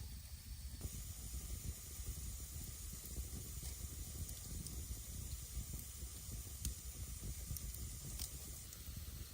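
Wind blowing against the microphone in a snowstorm: a steady hiss over an uneven low rumble, with a few faint clicks.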